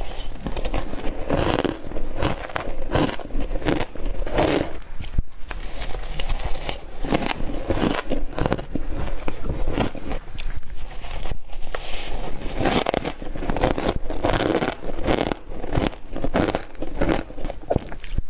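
Close crunching and crackling of a person biting and chewing mouthfuls of humidifier frost, a rapid run of small brittle crackles with louder crunches throughout.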